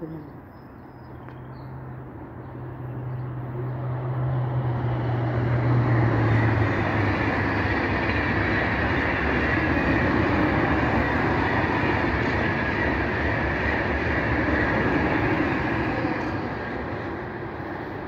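Ouigo TGV Duplex double-unit train passing. A low hum drops in pitch as the front goes by about six seconds in, then a steady rush of wheels and air from the double-deck coaches fades near the end.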